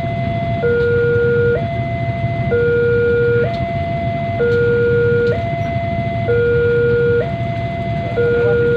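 Electronic two-tone hi-lo siren, alternating evenly between a higher and a lower note about once a second, over a steady low vehicle rumble.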